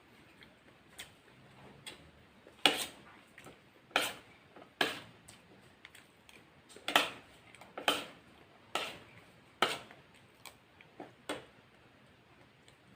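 Close-miked eating sounds: a string of sharp, crisp mouth clicks and crunches from chewing fried chicken, about eight loud ones at irregular intervals of roughly a second, with fainter ones between.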